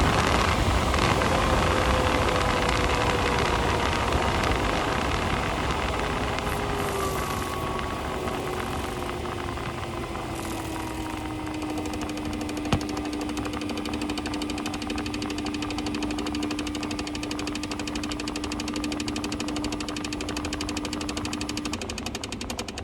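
Tesla Model Y cooling fan spinning down after the car stops, its hum falling slowly in pitch and then holding steady, with an extraneous knocking noise that the owner suspects is ice or a stone in the fan. A single sharp click comes about halfway through, and the steady hum stops shortly before the end.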